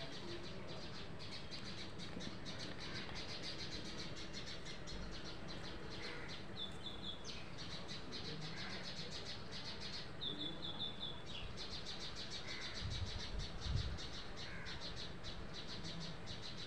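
Birds chirping: a steady, rapid high chirring throughout, with two short runs of quick, high repeated notes about six and ten seconds in. A few soft low thumps come near the end.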